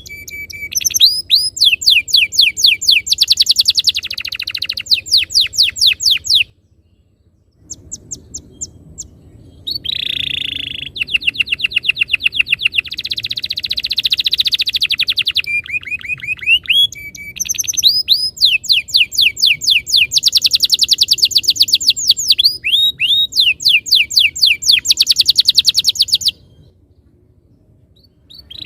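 Domestic canary singing loudly in long rolling trills, fast runs of repeated high sweeping notes, with short changes of phrase and two brief pauses, one about six and a half seconds in and a longer one near the end.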